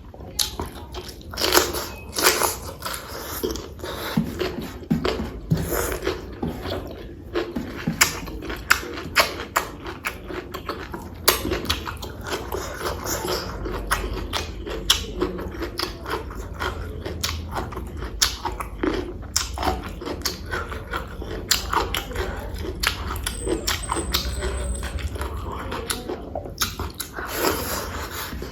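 Close-miked eating sounds: chewing and biting, with irregular wet smacks and crunches.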